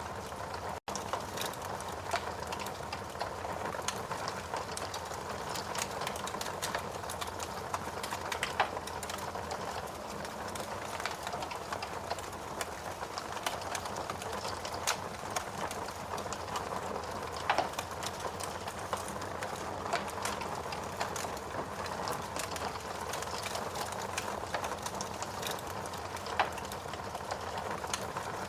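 Steady rain hiss mixed with the irregular crackling and popping of a wood fire, with a few louder pops.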